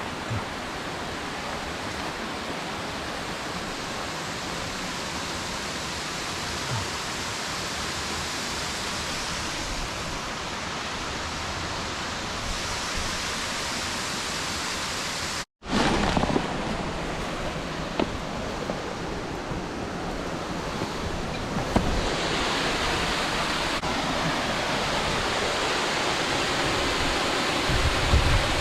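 Steady rush of falling water from a mountain waterfall. It cuts out for an instant a little past halfway and comes back louder.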